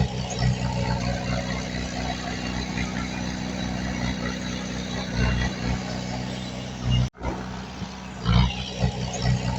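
Heavy diesel engine of an earthmoving machine running steadily, swelling briefly now and then. The sound cuts out for an instant about seven seconds in.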